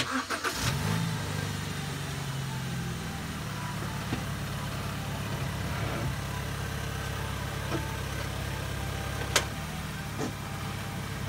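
BMW E90 320i's four-cylinder petrol engine running at idle, a little higher for the first few seconds before settling to an even idle. A single sharp click sounds about nine seconds in.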